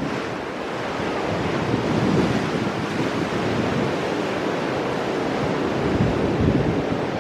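Ocean waves breaking and washing against shore rocks, a continuous rushing surf that swells a little with each wave, with wind buffeting the microphone.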